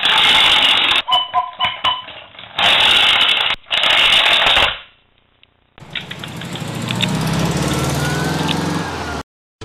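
Motor-racing sound effects: harsh engine noise that comes in loud, choppy bursts for the first few seconds. After a short gap, an engine runs down with a falling pitch and cuts off suddenly near the end.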